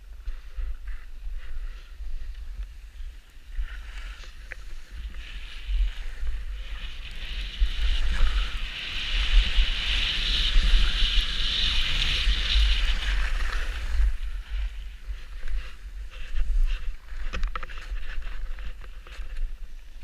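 Hiss of sliding over packed snow, swelling to its loudest in the middle and fading away about two-thirds of the way in, with wind rumbling on the microphone throughout.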